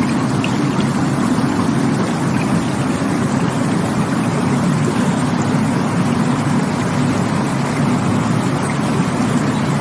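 Rushing water running steadily: a constant, unbroken rush with most of its weight low down and no separate splashes or drips.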